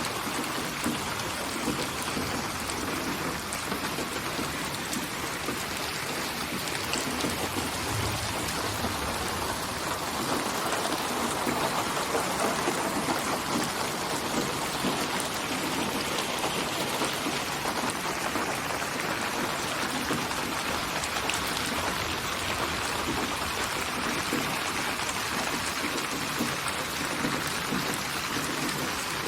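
Steady rain falling, with raindrops hitting a surface, as a white-noise recording for sleep.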